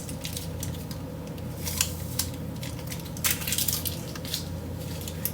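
Light clicks and taps of cups and utensils being handled while coffee is made, a few separate ticks over a steady low hum.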